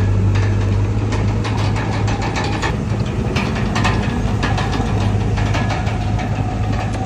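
Komatsu D31PX bulldozer's diesel engine running steadily with a deep hum, with many irregular sharp metallic knocks over it.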